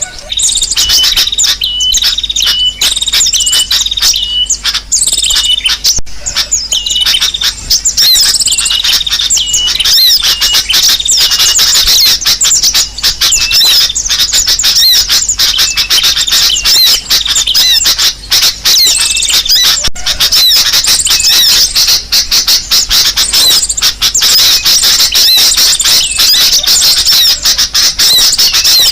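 Bird-lure recording of sunbird calls mixed with sooty-headed bulbul calls: dense, rapid, high-pitched chirping and trilling with no break, with evenly repeated short notes over the first few seconds.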